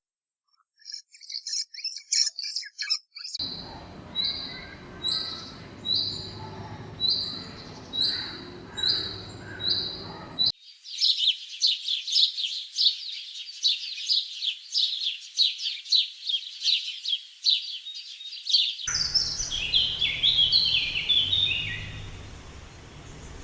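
Bird calls from several spliced recordings: scattered high chirps, then a short call repeated about once a second, then several seconds of dense high twittering, and near the end a run of chirps stepping down in pitch.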